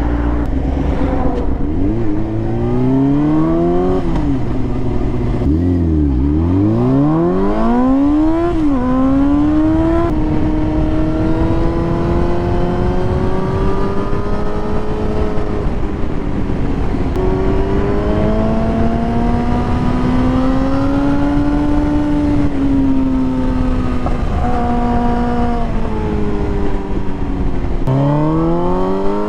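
Motorcycle engine idling briefly, then pulling away and revving up through the gears, its pitch climbing and dropping at each shift. It settles into steady cruising with a few more rises and falls, over a constant rush of wind on the microphone.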